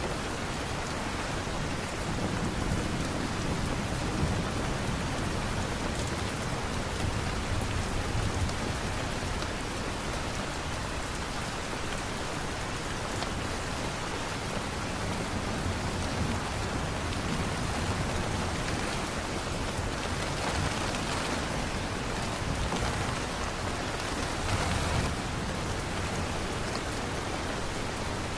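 Steady rain falling, a continuous even hiss, with low rumbles swelling up now and then.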